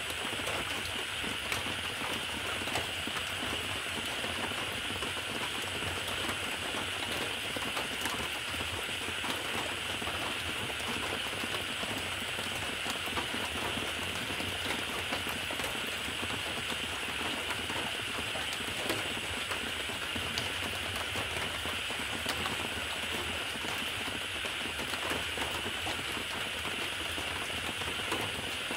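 Steady rain falling, an even hiss dotted with many small drop ticks, unchanging throughout.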